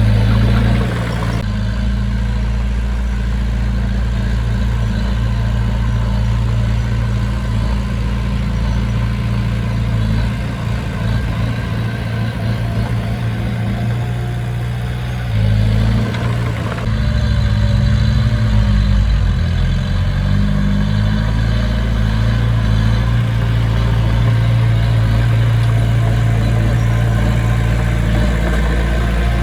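Diesel engine of heavy construction machinery running steadily, its note shifting with load in places, with abrupt changes about a second in and around the middle.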